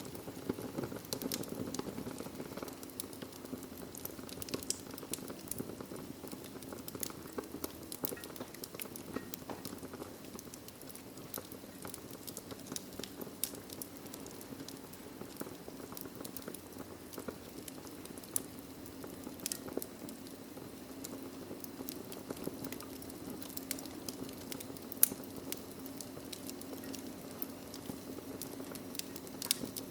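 Wood fire in a fireplace crackling: irregular sharp pops and snaps over a steady low rush of flame, with one louder pop late on.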